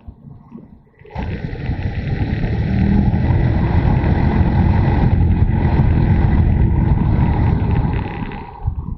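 Motorcycle under way, its engine mixed with a heavy rush of wind over the camera microphone. The rush comes up about a second in, builds for a couple of seconds, holds steady, then dies away near the end.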